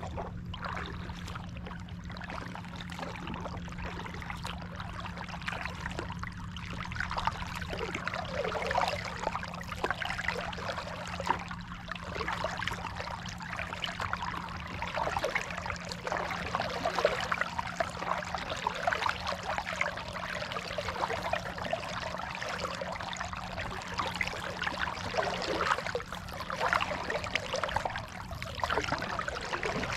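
Water splashing and trickling around a kayak on a lake, uneven and busier from about a quarter of the way in, over a steady low hum.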